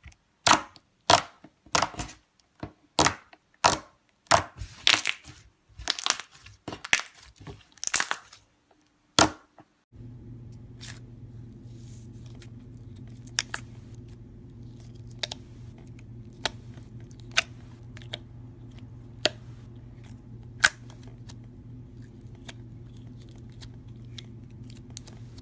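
Slime being worked by hand, crackling and popping in loud repeated bursts, one or two a second. After about ten seconds these stop and give way to a steady low hum with only occasional faint clicks.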